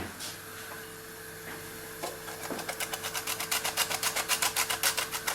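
Rapid, even clicking or scraping from a utensil being worked by hand in the kitchen, about six strokes a second. It starts a couple of seconds in and grows louder, over a steady low hum.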